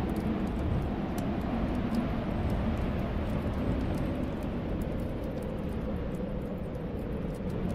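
Snowstorm wind blowing steadily in a low rumble with a faint wavering whistle, and a fireplace fire crackling in small scattered clicks.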